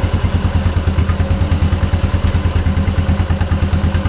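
Small farm tractor engine running at low throttle, with a steady, even pulsing beat.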